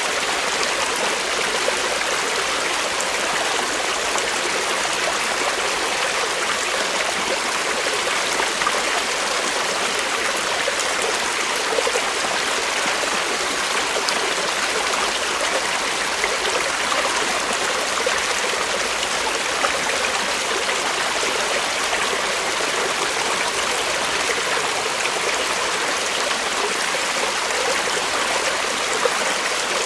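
Creek water flowing steadily over stones, a continuous rushing with small splashes and trickles.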